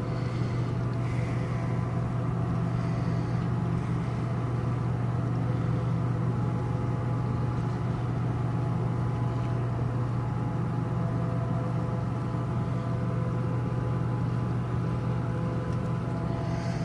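Steady low hum of a cruise ship's engines and machinery, with a few faint steady tones above it.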